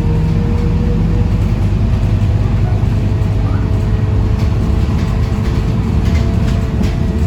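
Scania K230UB diesel city bus running, heard from inside the cabin: a steady low engine rumble with a faint hum, and a few light rattles of the body and fittings about two-thirds of the way through.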